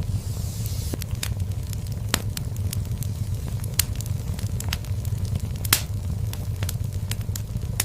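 Fire burning in a fireplace: a low, steady rumble of flames with irregular sharp crackles and pops, the loudest pops about four and six seconds in. A brief hiss comes in the first second.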